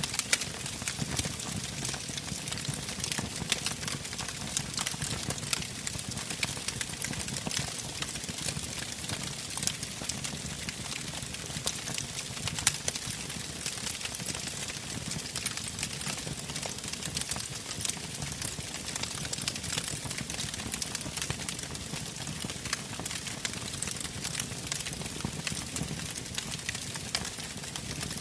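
Wood campfire crackling steadily, with many small sharp snaps and pops over a low rumble of flames.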